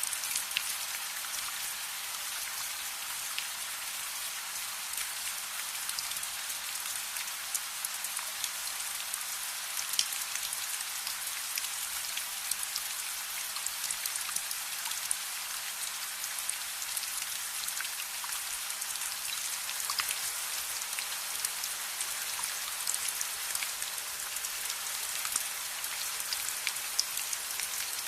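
Steady rain falling, an even hiss with scattered sharp ticks and pops throughout.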